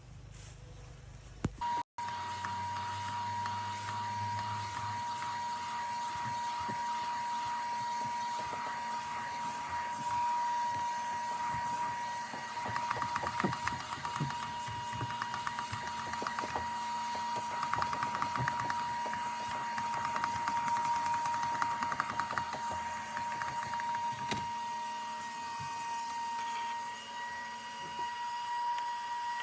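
Vacuum cleaner motor running at a steady high whine while cleaning a truck's interior, with uneven rubbing and scraping of the nozzle in the middle, then switched off and spinning down at the end.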